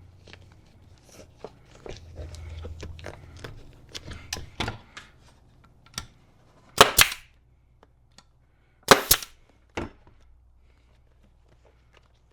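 Seat cover material being handled and rustled with small clicks, then a pneumatic staple gun firing five sharp cracks: two close together about halfway through, two more about two seconds later, and a last one a moment after.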